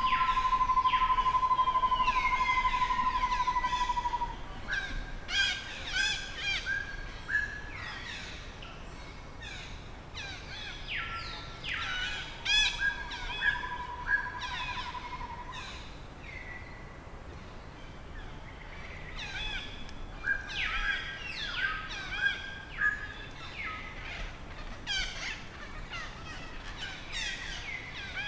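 Many short, high-pitched animal calls, repeated and gliding up and down in pitch, with a steady high whine over the first few seconds and again about halfway through.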